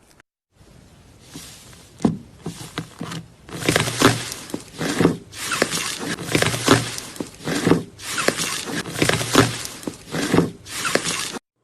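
Slime being squished and pressed, with clicky popping in repeated bursts about once a second; it cuts off suddenly near the end.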